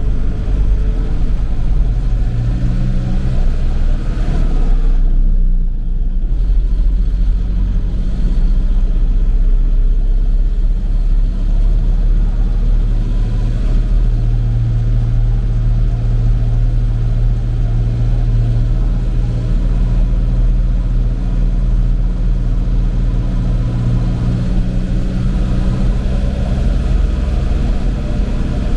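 Tractor engine running steadily under way, with its pitch shifting briefly about five seconds in.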